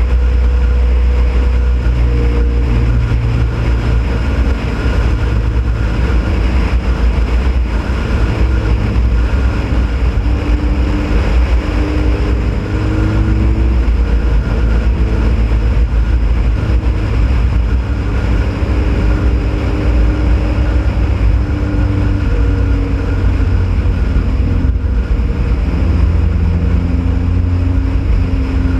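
Onboard sound of a Ford Pinto race car at speed on track: the engine running hard, its note rising and falling with throttle and gearshifts, over a heavy low rumble.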